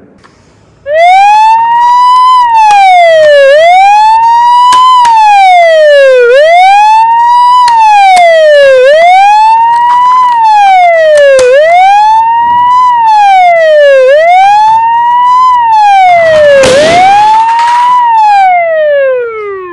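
Electronic emergency-vehicle siren wailing, its pitch rising and falling about every two and a half seconds. It starts abruptly about a second in, has a short noisy burst near the end, and then winds down in pitch.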